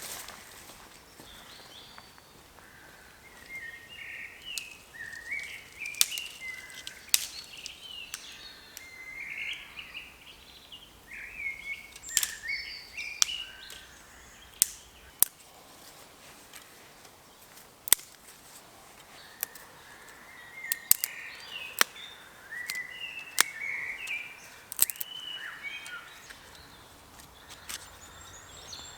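A songbird singing in bursts of quick warbling phrases, with scattered sharp cracks and clicks of sticks being broken and sorted by hand for a fire.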